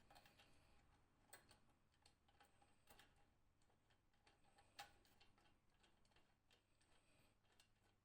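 Near silence broken by faint, irregular light clicks and taps, with two sharper clicks, one about a second in and a louder one near the middle.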